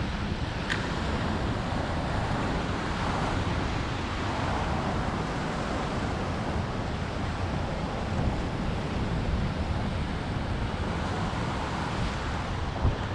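Strong wind buffeting the microphone, with ocean surf washing steadily underneath. One short, high tick sounds just under a second in.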